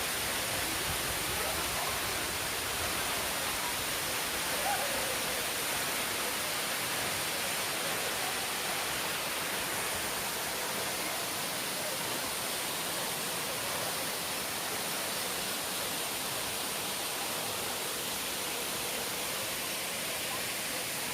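Steady rushing of running water, an even roar with no breaks, ending in an abrupt cut.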